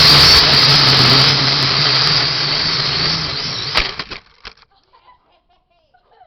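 Small quadcopter drone's propellers whirring, with a wavering high-pitched motor whine over a low hum. The sound fades a little, then cuts off with a click nearly four seconds in, the motors stopping.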